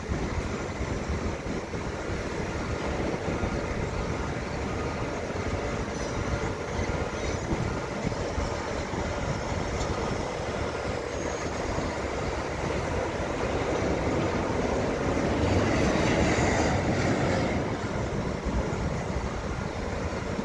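A distant electric commuter train running on the tracks: a steady rail rumble that swells about three-quarters of the way through.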